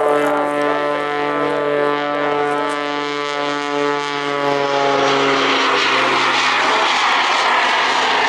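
Aerobatic jet-assisted Pitts biplane in flight: a steady engine drone with many overtones, sagging slightly in pitch. The drone fades out about five seconds in as a louder rushing noise swells up and takes over.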